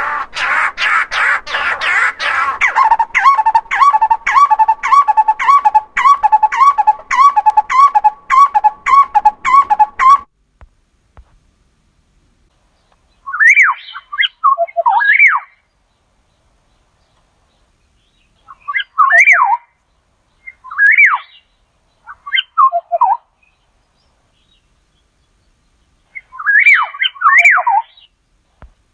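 Recorded bird calls: a series of quickly repeated notes, about two a second, for some ten seconds, then after a pause a bird's whistled phrases gliding up and down in short bursts.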